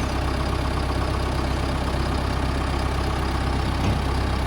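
Tractor engine idling steadily, with a deep, even running note.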